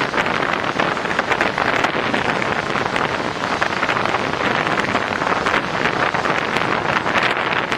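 Wind buffeting the microphone in a steady, crackling rush, over the sound of a fireboat moving off through harbour water.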